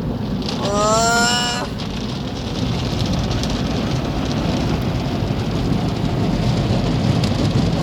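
Automatic car wash working over the car, heard from inside the cabin: a steady rushing of spray and brushes with a low rumble. About a second in, a brief pitched sound rises over it.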